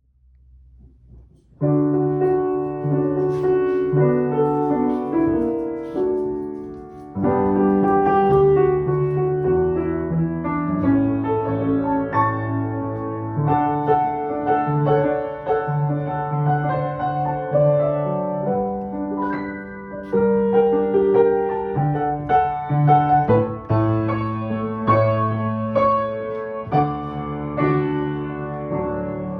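A 1905 Ellington upright piano, rebuilt with new hammers and strings, being played: a slow piece of held chords under a melody. It starts softly and comes in fully about two seconds in.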